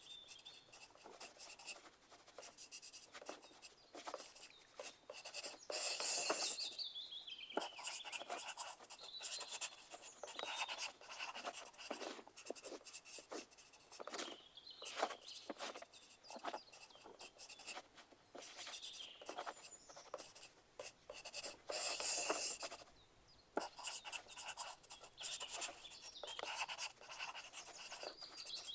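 Pencil writing on paper: quick, scratchy strokes, with two louder, denser stretches of scratching about six and twenty-two seconds in.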